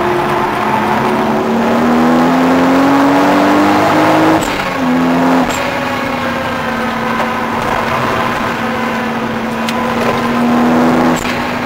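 Toyota Supra straight-six engine heard from inside the cabin at full track pace. The engine note climbs steadily for about four seconds, then falls sharply at a gear change about four seconds in, and again a second later. It holds nearly level at part throttle, climbs a little and drops once more near the end, with a few sharp clicks scattered through.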